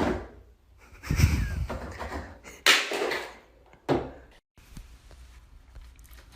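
A few sudden bangs and knocks: a heavy thump about a second in, then two sharper hits, after which it goes quiet.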